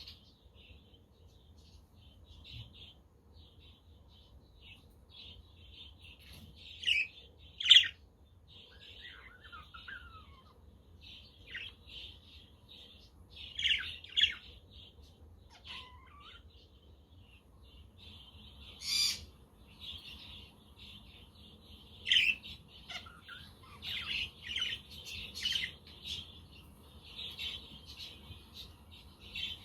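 Budgerigars chattering and chirping without a break, with a louder, shrill squawk every few seconds.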